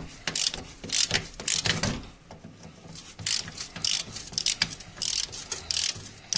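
Ratchet wrench with a 17 mm socket on an extension clicking in several short bursts of strokes as it undoes the skid plate's greased bolts.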